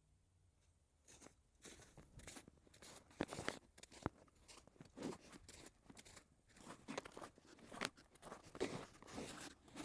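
Close, irregular crunching and rustling, like footsteps through crunchy ground cover, starting about a second in, with several sharper crunches.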